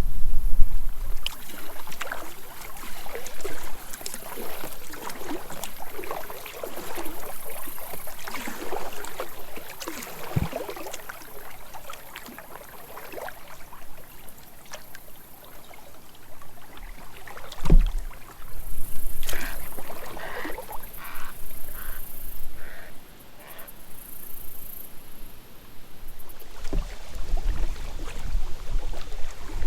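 Water sloshing and splashing around a kayak on a creek, likely paddle strokes, with two short knocks about ten and eighteen seconds in. Wind rumbles on the microphone at the start and again near the end.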